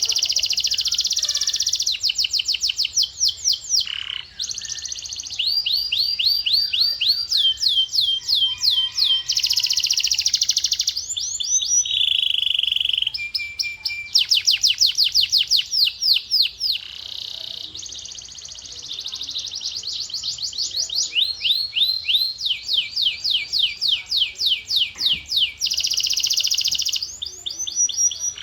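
Male domestic canary singing a long song of rapid rolls and trills, switching every second or two between tours of fast repeated sweeping notes and buzzy rattles, with a brief steady whistled note about halfway through.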